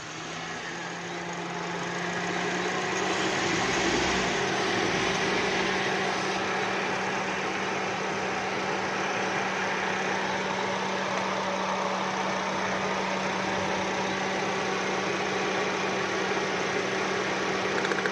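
Suzuki Swift 1.3-litre four-cylinder engine idling steadily just after starting. It has a misfire, or 'missing', which the mechanic puts down to moisture in a spark plug well.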